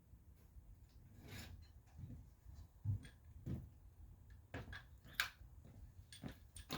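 Faint, scattered clicks, knocks and rubbing of metal hand tools being handled, as a socket and universal joint are fitted up for an impact wrench.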